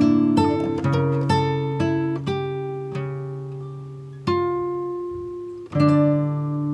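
Background music: acoustic guitar playing plucked notes and chords that ring out and fade, with fresh strums a little after 4 seconds and near 6 seconds.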